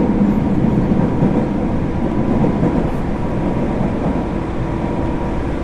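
JR 205-series electric train running, heard inside a motor car fitted with MT61 externally-ventilated traction motors: a steady loud rumble of wheels and running gear with a faint steady whine, easing slightly in loudness.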